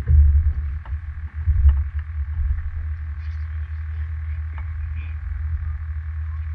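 Strong wind buffeting the microphone in gusts, in winds gusting to about 40 mph. A steady faint hiss and a sparse series of short, faint clicks run under it.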